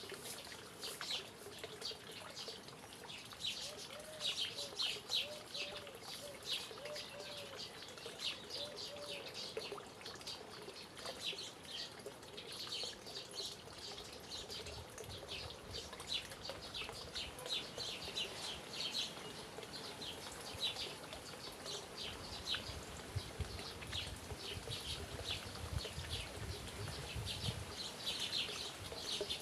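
Birds chirping: many short, high chirps repeating throughout, with a lower call repeated several times between about four and nine seconds in.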